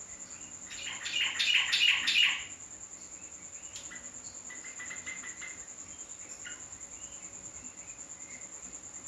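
Yellow-vented bulbul (trucuk) chirping: a loud run of quick chirps about one to two and a half seconds in, then softer scattered chirps. A steady high-pitched trill runs underneath.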